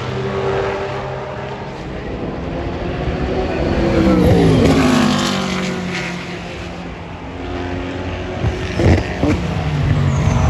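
Several race cars at full speed pass by one after another. Each engine's pitch drops as it goes past; the loudest pass comes about four to five seconds in, and more follow around nine seconds in.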